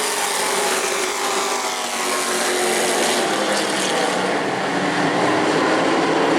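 Several race trucks' engines running at speed on the track, their pitches overlapping and shifting slightly as they go by.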